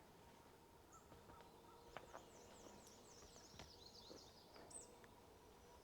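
Faint, distant birdsong in the open air: a quick run of high, thin, down-slurred notes starts about two seconds in and lasts a little over two seconds, with a few single high chips and scattered faint clicks around it.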